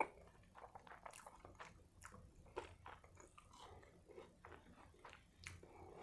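Faint chewing of a burger close to the microphone: soft, irregular mouth clicks and smacks.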